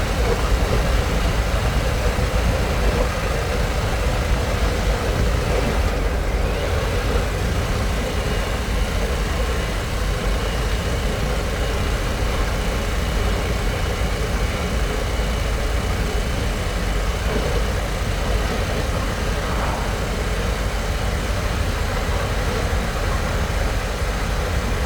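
Harley-Davidson Pan America's Revolution Max 1250 V-twin running at a steady cruise, mixed with a heavy low rush of riding wind on the microphone.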